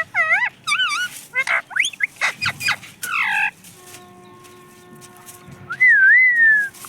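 Pet parrot calling: a run of quick chirps and squawks over the first three seconds or so, then a loud wavering whistle near the end.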